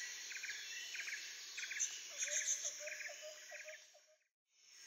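Forest ambience of insects: a steady high hiss with a triple-pulsed chirp repeating about every two-thirds of a second, joined in the middle by a quick run of short lower calls. It cuts to silence near the end.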